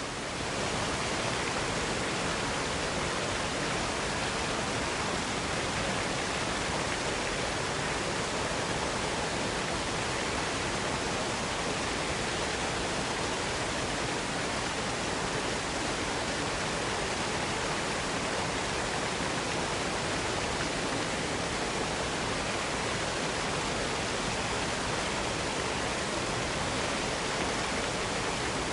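Waterfall cascade pouring, a steady, even rush of falling water with no change in level.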